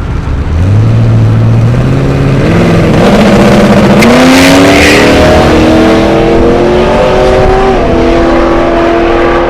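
Twin-turbo Sunbeam Tiger's Ford V8 launching hard and accelerating away down the drag strip, loud, its pitch climbing in steps with each gear change, with a brief hiss about four seconds in.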